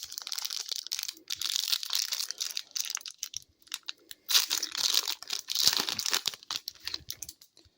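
Foil hockey-card pack wrapper being torn open and crinkled, in two bouts of dense crackling.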